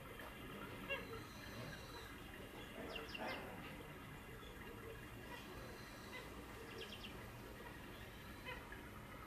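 Faint, short bird chirps in small quick clusters, a few times, over low steady background noise.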